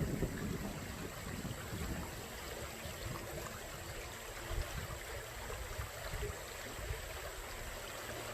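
Steady outdoor ambience of a small creek: water running, with a low gusting rumble of wind on the microphone.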